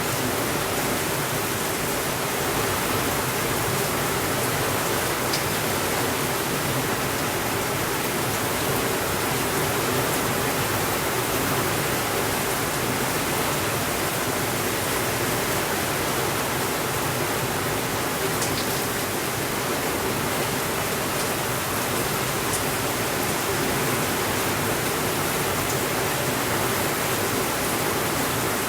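Steady, even rainfall, with a few faint short ticks here and there.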